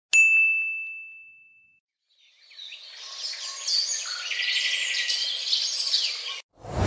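A single bright ding that rings on one clear tone and dies away over about a second and a half. Then a chorus of birds chirping fades in, grows, and cuts off suddenly; a loud new sound begins right at the end.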